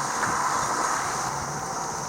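A vehicle driving along: a steady engine hum under a wash of running noise.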